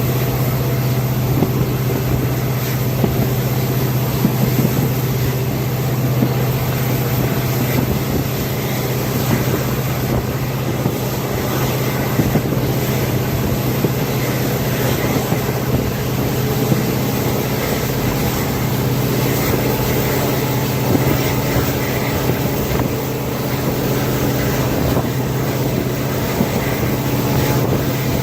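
WDP4D diesel locomotive's EMD two-stroke V16 engine running steadily under load, a constant low drone heard from the train behind it, with wind buffeting the microphone.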